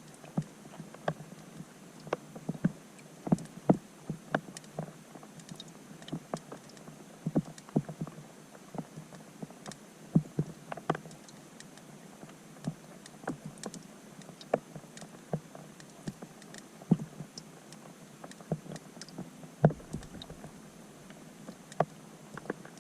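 Rain falling on a pond, heard underwater through a GoPro housing: irregular sharp ticks and plinks of drops striking the surface over a steady hiss.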